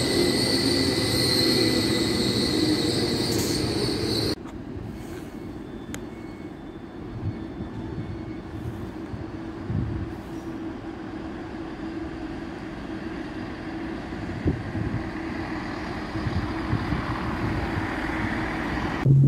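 Train wheels squealing with high ringing tones on the station's curved track, cutting off abruptly about four seconds in. Then the quieter, steady running of a Great Western diesel multiple unit rolling slowly past over the pointwork, with occasional clicks from the wheels.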